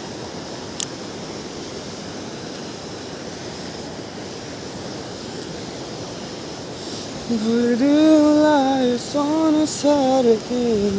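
A steady rushing noise, then from about seven seconds in a person sings a tune without clear words, in held, gliding notes.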